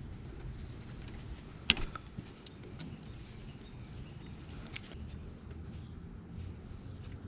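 Scattered light metal clicks and taps of a hand wrench working a 10 mm hose fastener, with one sharper click about a second and a half in, over a low steady background hum.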